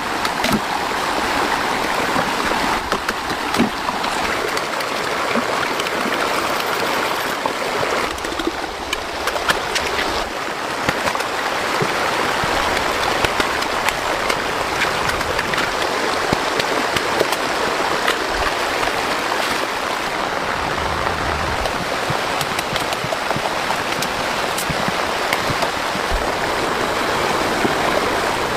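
Fast-flowing floodwater rushing steadily in a rain-swollen stream.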